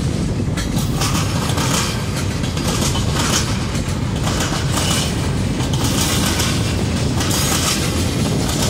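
Freight train boxcars rolling past at close range: a steady, loud rumble of steel wheels on rail.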